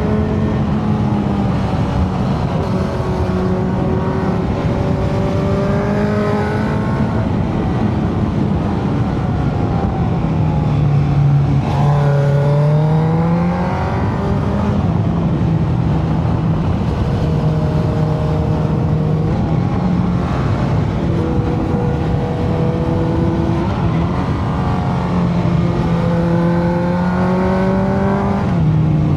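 Motorcycle engine running under way with wind noise; its pitch climbs and drops as the rider works the throttle and gears, with a clear drop in revs around ten seconds in.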